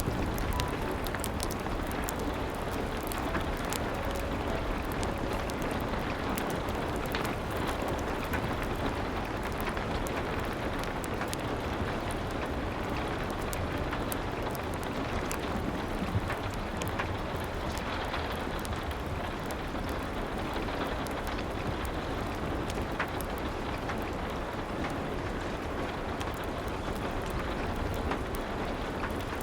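Steady rain hissing without pause, with many sharp crackles and pops of a wood fire scattered through it.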